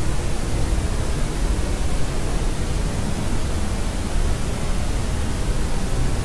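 Steady, unchanging noise like a constant rush, heavier in the low end than in the highs, as in pink noise played to soothe a baby to sleep.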